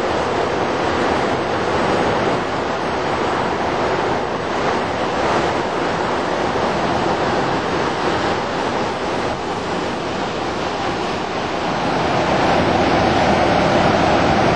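Steady rushing of floodwater released through Whitney Dam, churning as whitewater in the Brazos River below. It grows a little louder near the end.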